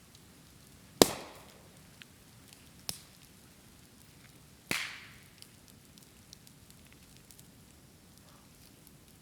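Bamboo bursting in a bonfire: a sharp loud bang about a second in, a smaller crack, then another loud pop followed by a brief hiss, over faint crackling. The pops come from heated air and moisture sealed inside the hollow bamboo segments expanding until the culm splits.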